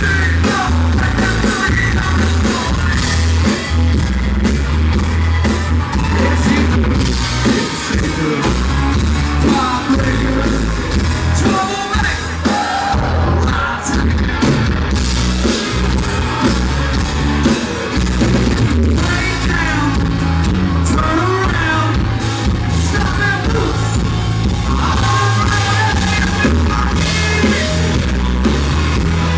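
Live country-rock band playing loud, with drums, electric guitar, bass and a lead vocal, heard in a poor, boomy recording with a heavy, distorted low end.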